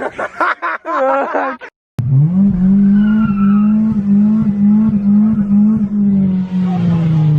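A few seconds of shouting voices, then a car engine revving up fast and held at high revs while the tyres spin in a skid, its pitch dropping away near the end.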